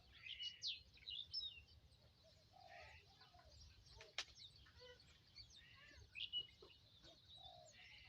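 Birds chirping faintly, with short scattered calls and quick high sweeps throughout.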